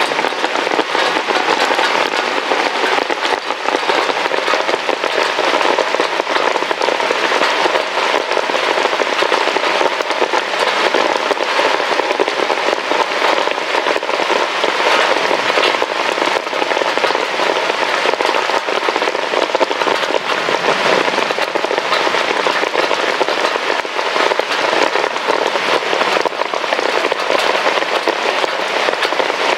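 Heavy rain pouring steadily, a dense unbroken patter of drops on a hard surface.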